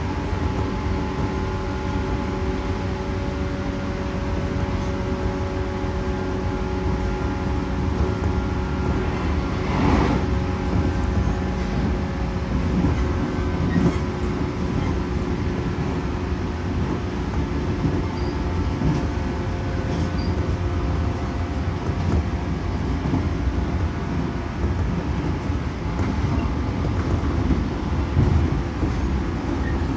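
JR 115 series electric train running along the line, heard from on board: a steady rumble of wheels on rail with a constant whine of several tones from the motors and gears. There is a brief louder rush about ten seconds in and a few faint clicks.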